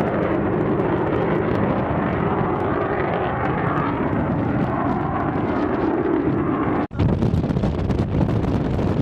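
Steady engine noise of a fixed-wing aircraft flying a display. It breaks off abruptly about seven seconds in and gives way to wind buffeting the microphone.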